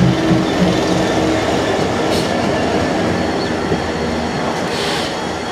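Freight train passing close by: the two-stroke V12 diesel of a Class 66 locomotive pulses low in the first second or so and fades as it draws away. Then the steady rumble of container wagons rolling past on the rails, with two brief high-pitched squeals about three seconds apart.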